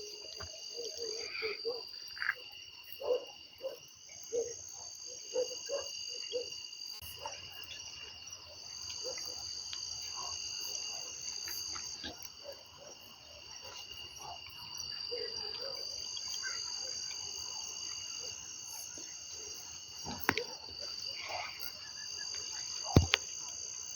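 Night chorus of insects trilling steadily in several high pitches, with frogs giving short low croaks, in quick runs during the first half and scattered later. Two sharp clicks stand out near the end.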